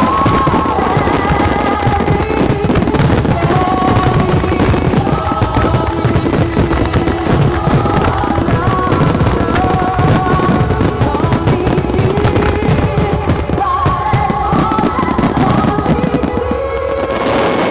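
A sustained, slow melody of music over a dense, unbroken barrage of fireworks: rapid crackling and bursting of aerial shells and ground fountains going off together.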